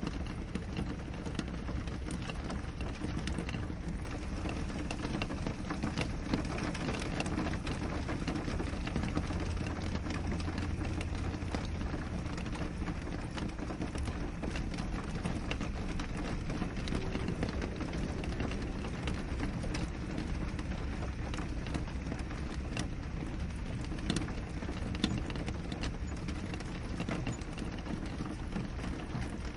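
Steady rain on a window: a constant low rumble of rainfall with many small, sharp ticks of single drops striking the glass.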